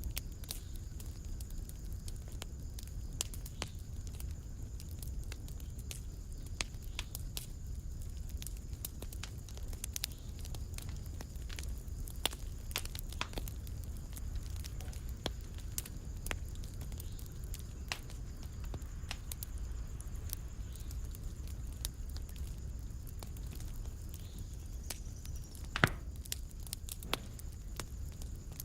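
Wood fire crackling in a fireplace: irregular sharp pops and snaps over a low steady rumble of the flames, with one louder pop near the end.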